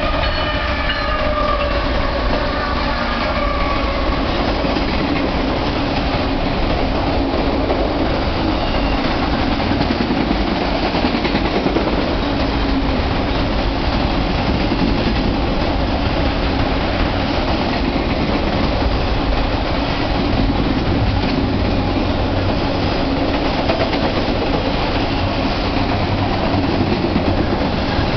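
BNSF freight train passing: a pitched note from the lead locomotive falls in pitch over the first few seconds as it goes by. Then comes the steady rumble and rattle of autorack cars rolling past, with wheel clatter.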